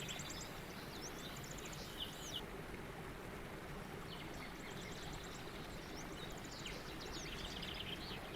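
Songbirds chirping and trilling in quick series of high notes over a steady background hiss. The birdsong pauses briefly a little before the middle, then resumes.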